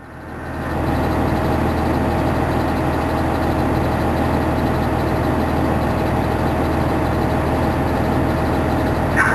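Fire engine's engine running steadily with a constant hum and a steady mid-pitched tone. It comes up over the first second, then holds level.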